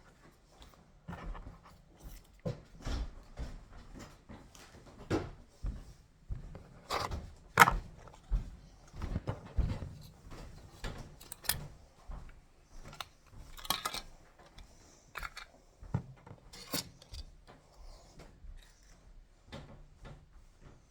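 Irregular clicks, knocks and rubbing from handling pet-food containers and dishes, with one sharper knock a little over seven seconds in.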